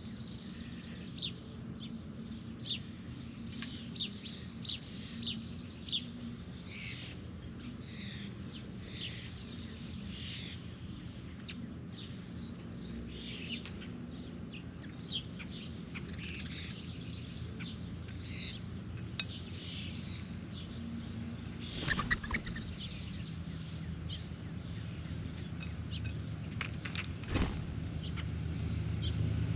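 Birds chirping: a run of short, sharp, falling calls, about one every half second at first and more scattered later, over a steady low hum. Two sharp knocks come near the end.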